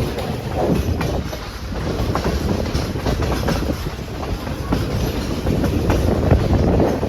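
Passenger train rolling along the track: a steady low rumble with the clickety-clack of wheels over the rail joints and scattered knocks.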